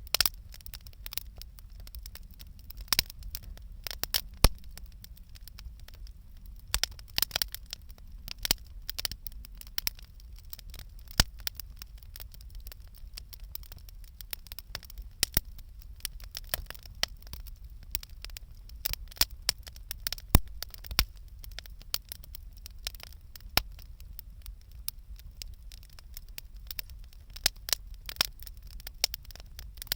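Wood campfire crackling: irregular sharp pops and snaps of burning wood, some much louder than others, over a low steady rumble.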